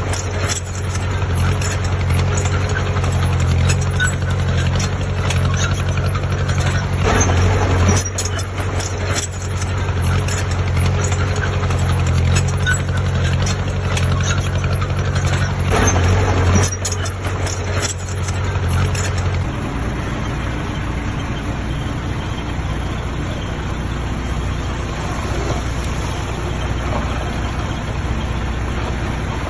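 Heavy earthmoving machinery running, its diesel engine making a steady low drone with scattered clanks and rattles. About two-thirds of the way through, the sound changes to a quieter, smoother engine drone without the clanks.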